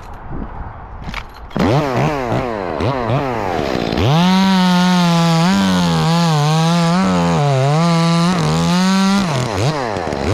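Chainsaw blipped up and down a few times, then held at high revs while cutting, its pitch dipping and recovering under load, before dropping back and revving once more near the end. This is a slice cut to drop the top of a tree.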